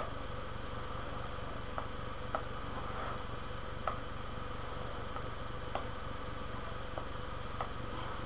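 Steady low electrical hum with faint, sharp clicks at irregular intervals, about six of them.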